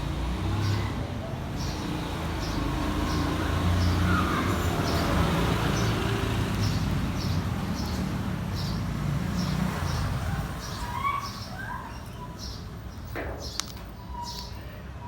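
Steady low background rumble with light ticks about every half second, and a few short chirps and whistles from an African grey parrot, mostly about four seconds in and again near eleven seconds.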